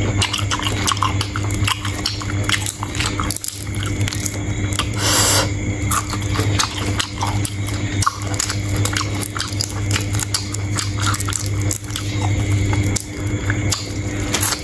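Close-miked eating of sea shrimp: chewing and biting with many small, irregular clicks and crackles, over a steady low hum.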